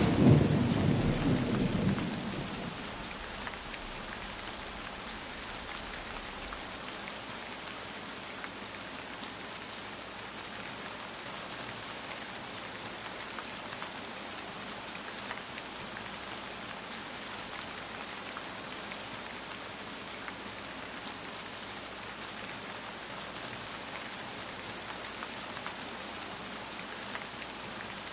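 Steady rain falling on surfaces. A thunder rumble dies away over the first two or three seconds, leaving an even hiss of rain.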